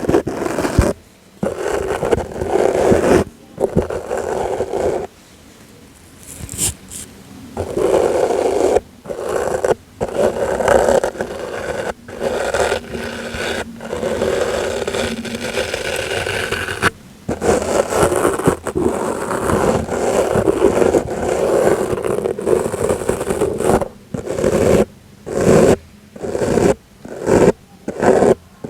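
Brush strokes for ASMR, a scratchy brushing sound in long passes broken by short pauses, turning into quick short strokes near the end.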